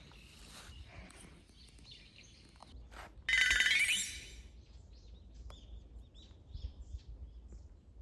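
Small birds chirping in short, faint calls, with one loud shrill sound lasting about a second a little over three seconds in.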